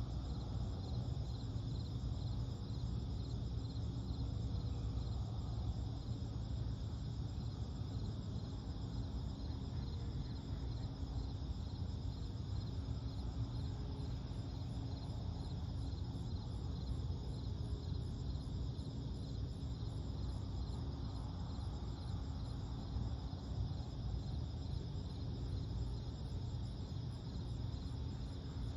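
Steady chorus of night insects such as crickets, trilling continuously in rapid even pulses, over a constant low background rumble.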